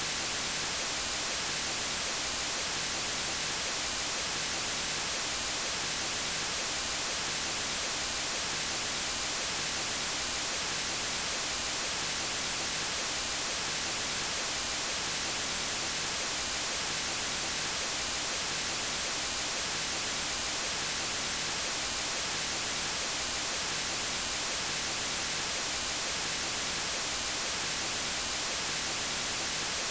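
Steady white noise: an even, unbroken hiss, brightest in the treble, that does not change.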